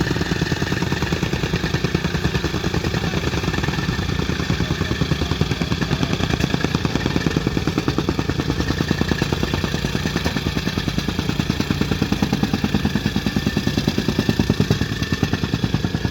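An engine running steadily at a constant speed, with a fast, even pulsing beat and no change in pitch.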